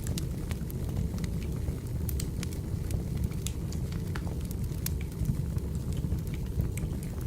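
Wood fire burning in a fireplace: a steady low rumble of flames with many irregular sharp crackles and pops of burning logs.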